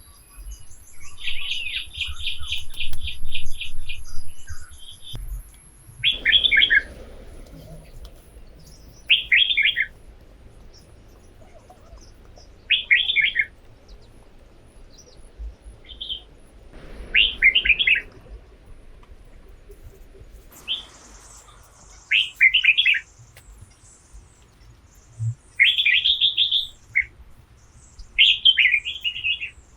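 A bird calling over and over in short bursts of rapid chirps every few seconds, with a longer unbroken run of chirps near the start.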